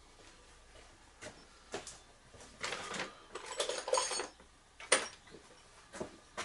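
Rummaging by hand through loose bolts and metal hardware: scattered clicks, then a couple of seconds of clattering, metal parts clinking and ringing against each other, and a sharp click about a second later.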